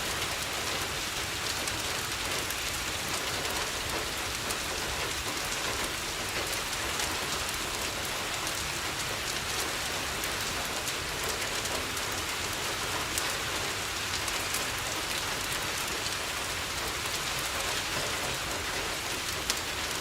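Steady rain falling on a window, mixed with a fireplace crackling in scattered light clicks.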